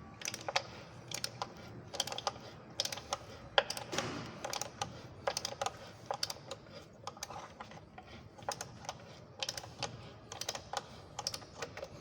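Irregular metallic clicks and ticks, a few a second, from a thread tap being worked by hand to cut a thread in a hole for a helicoil insert.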